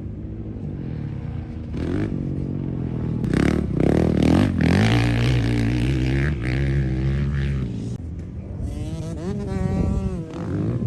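Dirt bike engines revving on a motocross track, the pitch climbing and dropping as the throttle is worked. The sound is loudest about four seconds in, and near the end one rev climbs and falls away.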